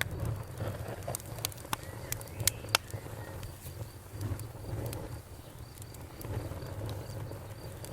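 Wood fire burning with a low rumble and a run of sharp crackles and pops, the loudest a few seconds in, over crickets chirping in a steady, high pulsing rhythm.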